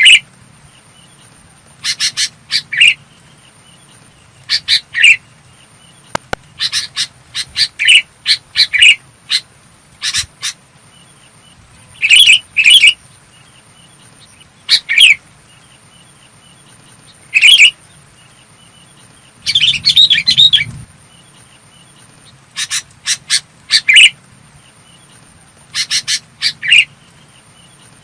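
Sooty-headed bulbul singing: short, clear whistled phrases of a few quick notes, repeated every two to three seconds, with one longer, busier burst about two-thirds of the way through.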